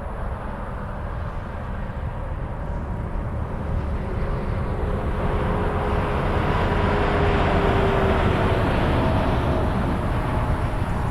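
Open-top MG Midget driving, its engine, tyres and wind on the open cockpit making a steady rumble and rush that swells to its loudest about two-thirds of the way through.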